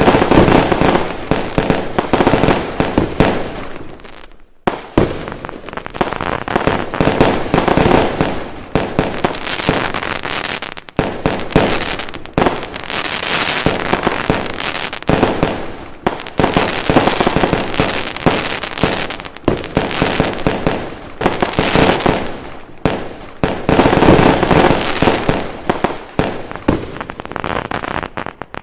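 Fireworks going off in a dense, continuous barrage of bangs and crackling, easing briefly about four seconds in and again about eleven seconds in.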